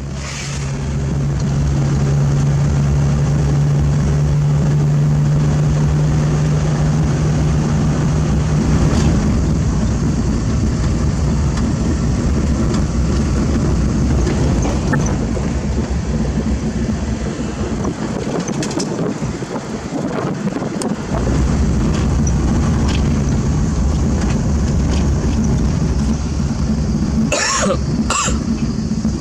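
Heavy diesel engine of a construction machine running steadily, with a steady low engine note for the first several seconds that then turns rougher. The low rumble drops briefly past the midpoint, and a couple of short sharp sounds come near the end.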